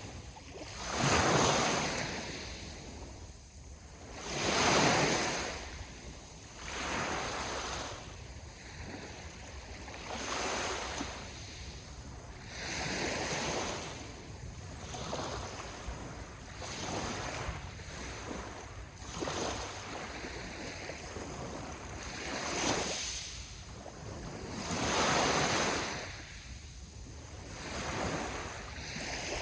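Sea waves breaking and washing up the shore, surging and falling back every few seconds, the strongest surges about a second in and around five seconds.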